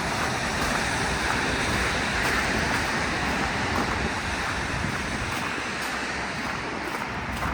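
Steady hiss of traffic on a rain-wet road, swelling a little about two seconds in and then easing.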